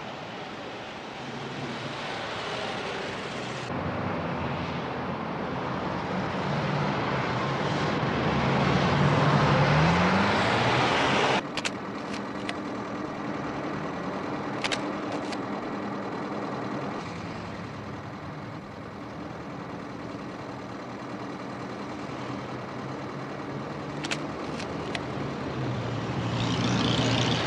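Car engine running in town traffic. Its pitch climbs as it accelerates about eight to ten seconds in, then it cuts off abruptly to a steadier, quieter running sound with a few short clicks. The engine rises again near the end.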